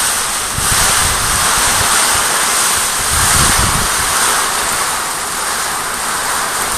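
Heavy rain pouring steadily, with wind gusting on the microphone.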